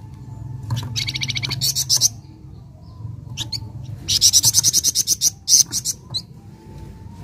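Flamboyan songbird singing: two bursts of fast, high chattering trill, each a second or more long, with a few single sharp notes between them.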